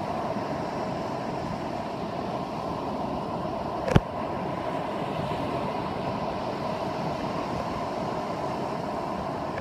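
Steady beach ambience of ocean surf and wind noise on a phone microphone, with a single sharp knock about four seconds in, like the phone being bumped.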